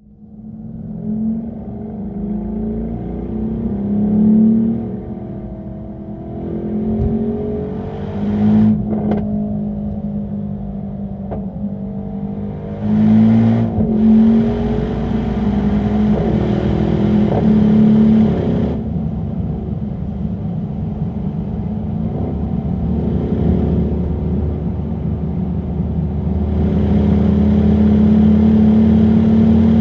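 Mercedes-AMG E63 S's twin-turbo V8 accelerating through the gears: the engine note climbs in pitch and drops back at each upshift, several times over.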